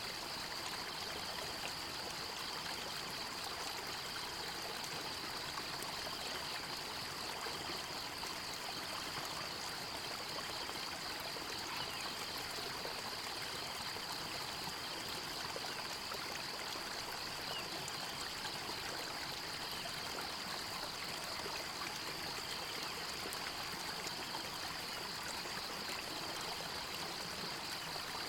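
Flowing stream water, a steady rushing and trickling. Over it runs a continuous high-pitched pulsing trill.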